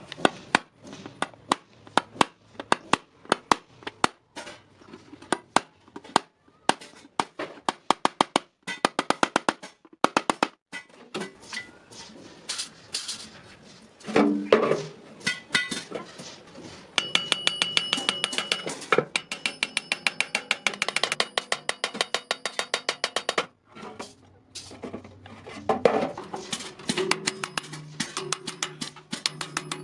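Hammer blows on iron at an anvil, struck in runs of quick strokes with short pauses between them, the metal ringing after the strikes.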